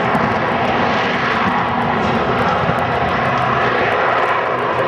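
The four Allison turboprop engines of a Lockheed C-130 Hercules running steadily at high power, loud and sustained.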